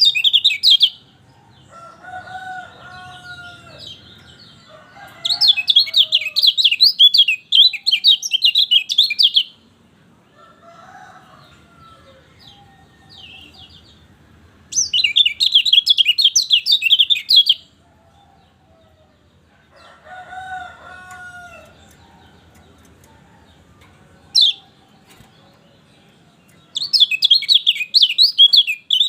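Kecial kuning (a white-eye) singing in bouts of rapid, high twittering song, four times, each lasting a few seconds. Between bouts come softer, lower calls and, about two-thirds through, one sharp falling note.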